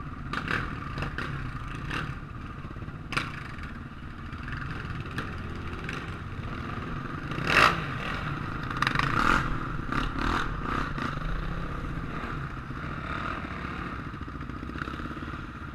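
Off-road racing motorcycle engines running steadily in the distance, broken by several sharp clicks and knocks. The loudest knock comes about seven and a half seconds in, and a cluster of them follows a couple of seconds later.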